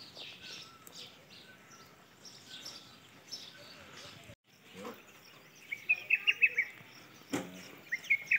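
A small bird chirping, faint at first, then two quick runs of high, rising chirps in the second half, with a single short knock between them.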